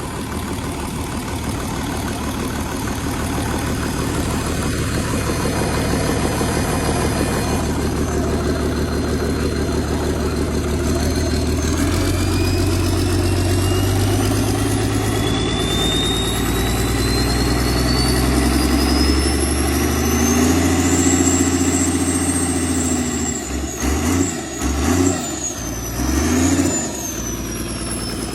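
Hino C6 engine running, its speed building about halfway through with a slowly rising whine, then revved in several short bursts near the end.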